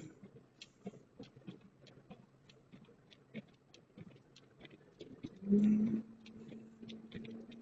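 Rapid light ticking inside a moving car, about three ticks a second. A low, steady hum comes in about five and a half seconds in and fades near the end.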